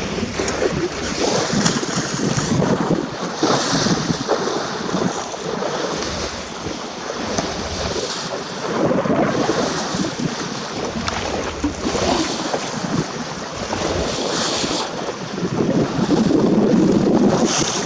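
Wind buffeting the microphone over the rush of sea water along a moving boat's hull, swelling and easing in surges, with brief bursts of spray hiss.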